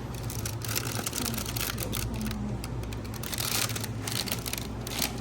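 Many quick light clicks and rustles over a steady low hum.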